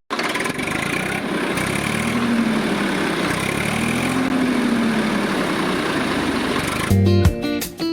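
A mini tractor's motor running, with a faint pitch in its sound that rises and falls twice. Guitar music comes in near the end.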